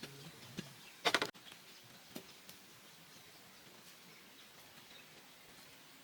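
A quick rattle of several sharp knocks about a second in, with a few lighter clicks scattered after it, over a faint outdoor background.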